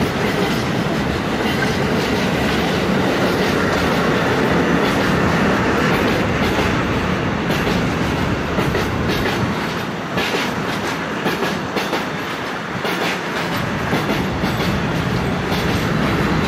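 Container freight train's wagons rolling steadily past, the wheels clicking and clattering over the rail joints, with sharper clicks in the second half.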